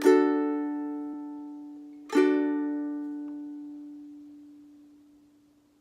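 aNueNue Moon Bird US200 soprano ukulele: one chord strummed, then a second about two seconds in that is left to ring out and fade away.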